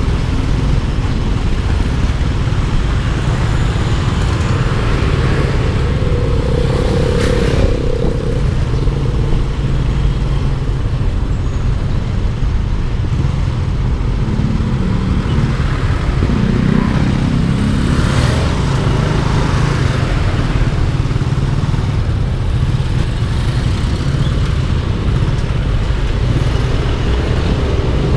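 Yamaha Aerox 155 scooter's single-cylinder engine running at riding speed, heard as a steady low rumble, with other traffic passing around it.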